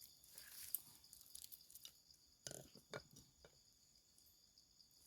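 Near silence: a faint steady high hiss, with a few soft clicks and rustles, most of them about two and a half to three seconds in.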